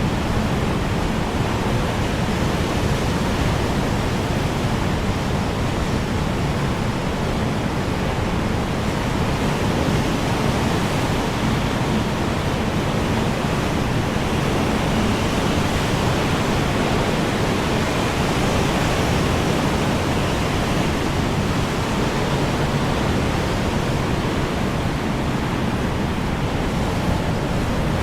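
Strong wind blowing steadily: an even rushing noise with no distinct gusts.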